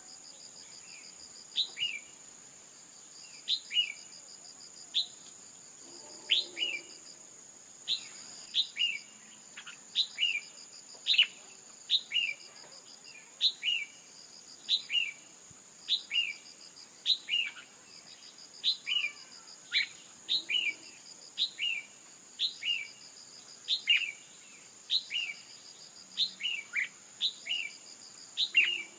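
Female red-whiskered bulbul calling: short, sharp chirps that sweep downward, often in quick pairs, repeated about once a second. A steady high insect drone and an on-and-off pulsed insect trill run underneath.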